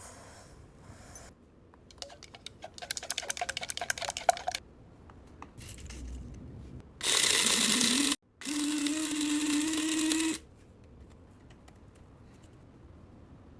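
A miniature blender motor runs in two short pulses. The first lasts about a second with a rising whine as it spins up; the second is a steady two-second run. Before them come a couple of seconds of rapid, light crackling clicks.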